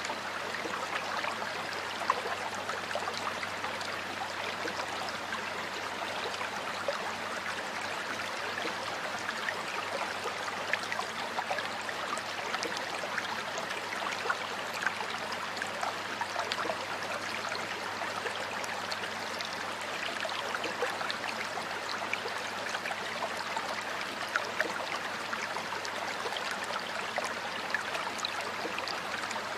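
Stream water flowing steadily, an even rushing with many small trickles and a few brief splashes.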